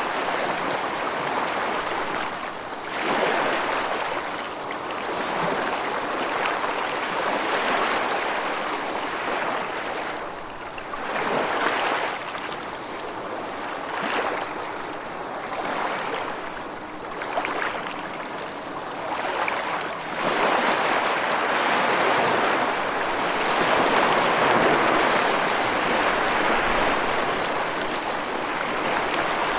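Rushing water, a dense hiss that swells and eases every few seconds.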